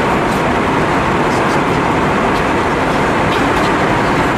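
Steady cabin roar inside an Airbus A320-232 airliner, a loud even rush of jet engine and airflow noise.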